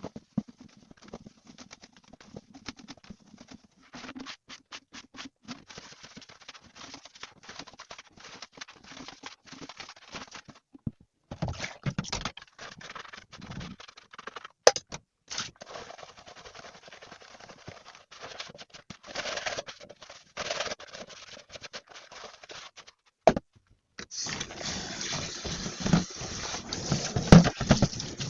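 Light rustling with small clicks and knocks of household items being handled. About four seconds from the end a tap is turned on and water runs steadily.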